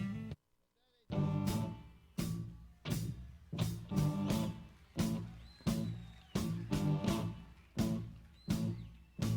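Guitar strumming chords in a steady rhythm, about three strums every two seconds, each strum ringing out and fading before the next. The sound drops out briefly about half a second in.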